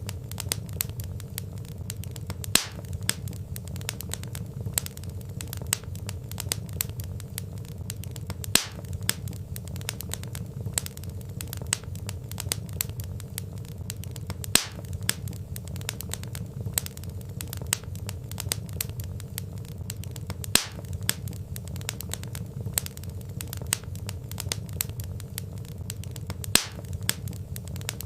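Log fire crackling: frequent small snaps over a steady low rumble of burning, with a louder sharp pop about every six seconds.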